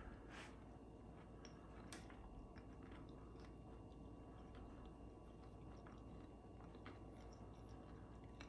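A person faintly biting into and chewing a crunchy crumbed ham and cheese croquette: a couple of sharper crunches in the first two seconds, then soft irregular chewing clicks.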